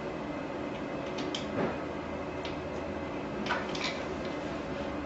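A few light clicks and knocks of chair bolts and metal seat parts being handled and set in place, over a steady background hum.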